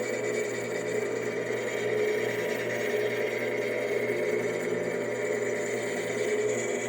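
Vevor 7x14 mini metal lathe running steadily, its variable-speed motor and gear train giving an even hum with a thin whine, while the cutting tool is slowly fed across the face of the part.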